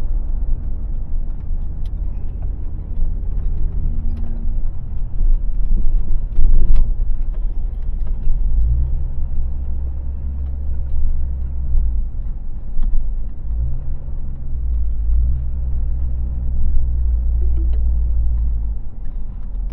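Motor vehicle running with a steady low engine drone and rumble, its pitch shifting a couple of times.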